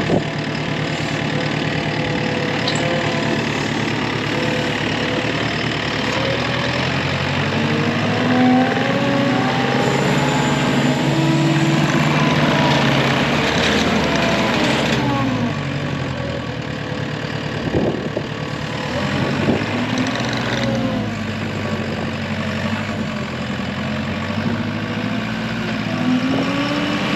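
Telehandler engine running under changing throttle. It revs up over several seconds about a third of the way in, drops back to a lower speed, and climbs again near the end, with a few brief knocks in the middle.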